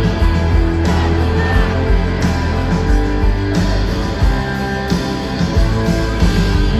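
Live rock band playing an instrumental passage without vocals, electric guitar to the fore.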